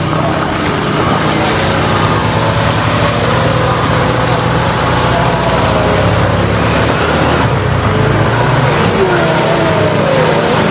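A heavy truck engine running steadily with a low, even drone, with voices in the background towards the end.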